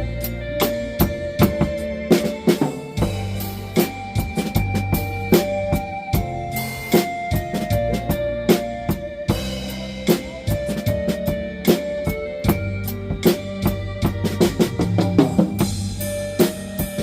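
Drum kit played in a blues groove, bass drum, snare and cymbals struck steadily throughout, over a backing track with sustained pitched notes from bass and guitar.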